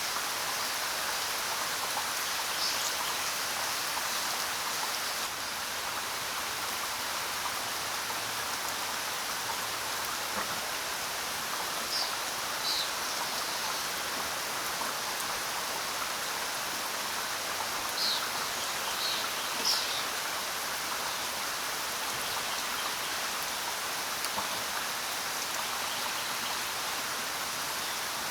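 Steady rain falling, with a few short, high bird chirps scattered through it.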